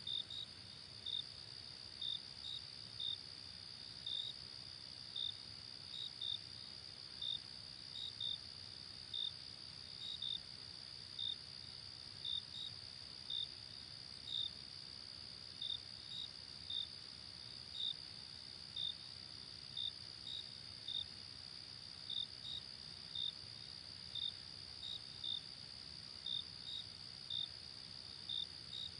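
Crickets chirping, a short chirp a little more than once a second, over a steady high-pitched insect trill, with a faint low background hiss.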